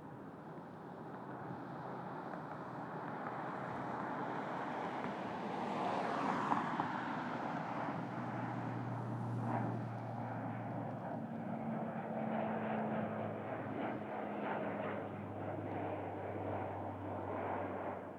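Fixed-wing airplane flying over: engine noise builds over the first six seconds, peaks, then carries on as a steady rumble with a low hum beneath it.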